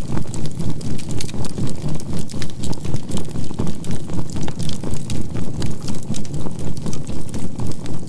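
Crackling fire, with scattered small snaps and pops, over a steady low synthesized tone that swells evenly about three to four times a second, as a binaural beat does; a faint 528 Hz tone sits above it.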